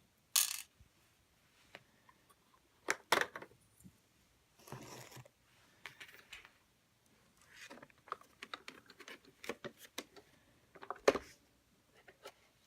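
Plastic parts of a robot vacuum being handled during disassembly: scattered light clicks, taps and brief scrapes, with one sharper knock near the end.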